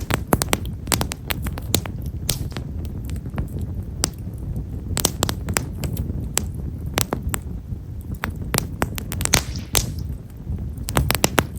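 Himeshara (Japanese stewartia) firewood burning in an open wood fire, crackling with many small, sharp pops at an irregular pace over a steady low rumble.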